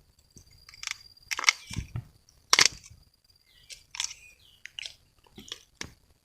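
Irregular crunches and snaps of forest vegetation being broken or stepped through, the sharpest about one, one and a half and two and a half seconds in, over a thin steady high tone.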